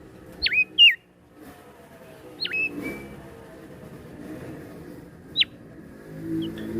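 Songbird giving loud, clear whistled notes that drop steeply and then rise again, in short phrases a couple of seconds apart. A low hum runs underneath and grows louder near the end.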